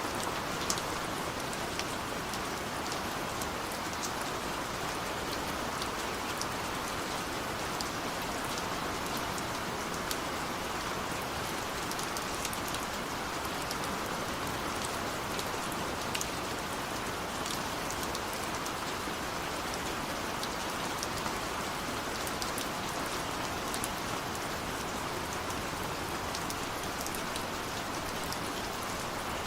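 Steady rain pattering on a window, an even hiss with scattered small drop ticks.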